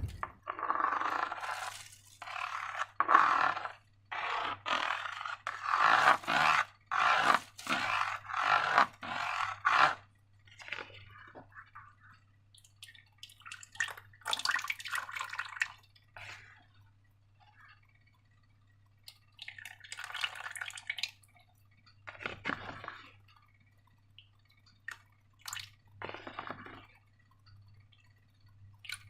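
Slime being worked by hand: sticky, squishy handling and scraping noises in quick repeated bursts for about the first ten seconds, then sparser squishes with short pauses.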